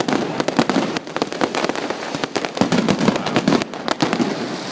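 Fireworks going off: a dense, irregular run of sharp pops and bangs, many each second, over a continuous noisy rumble.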